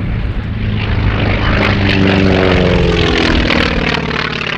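North American T-28B Trojan's nine-cylinder Wright R-1820 radial engine and propeller running at display power as the aircraft flies past. The engine note swells, then drops in pitch about three seconds in as it goes by.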